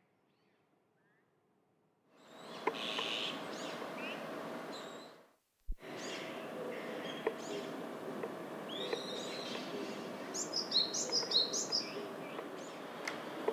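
Bird calls: a run of short, high chirps in the second half over steady outdoor hiss, with a few faint sharp taps scattered through. The first two seconds are near silence.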